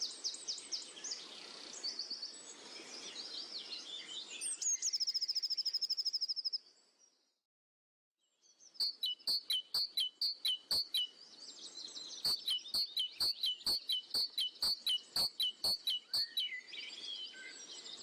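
Birds singing in rapid high trills, cut off about six and a half seconds in. After a short silence, a bird repeats a short chirp with a sharp click nearly three times a second.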